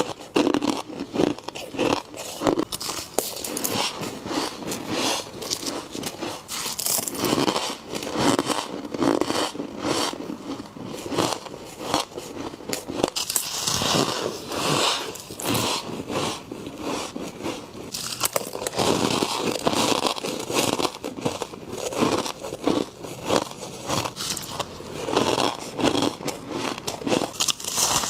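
Repeated crunchy, squeaky bites into powdery frost, eaten close to the microphone.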